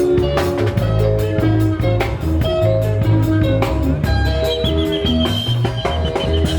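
Live band music: electric guitar melody lines over a bass line and a steady drum-kit beat.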